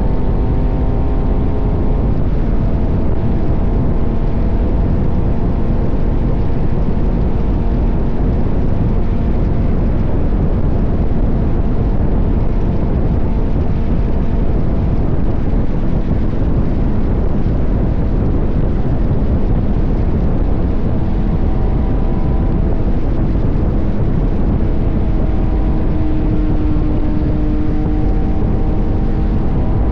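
KTM 1190 Adventure's V-twin engine running at road speed under heavy wind rush on the camera microphone, its pitch sliding up and down as the revs change, most clearly at the start and again in the last few seconds.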